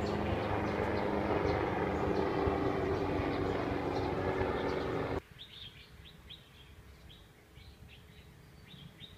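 Small birds chirping, at first over a loud steady drone with a low hum, which cuts off abruptly about five seconds in. The chirping then goes on over a much quieter background.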